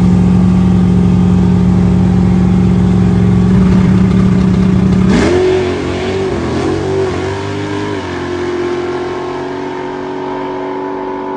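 Drag-racing car engines held at high revs while staging at the starting line: a steady, loud drone, then about five seconds in the pitch jumps higher and wavers as the throttle is blipped.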